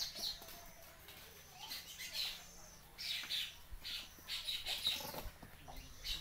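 Small birds chirping in short, high bursts, several times over a few seconds.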